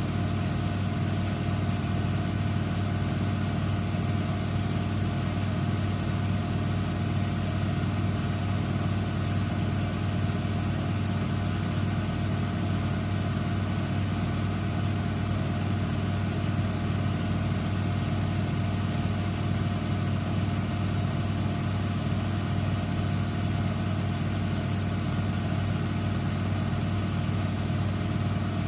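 Eudora Supernova EU 1001 front-loading washing machine running a steady, even final spin, a constant machine hum with a strong low tone.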